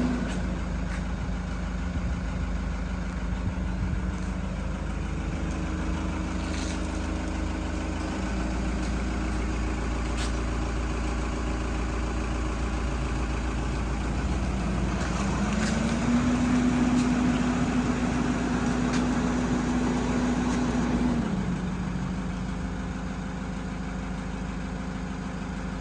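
Vehicle engine idling steadily. About fifteen seconds in, its speed rises a little and holds for several seconds, then drops suddenly back to idle. A few faint clicks sound over it.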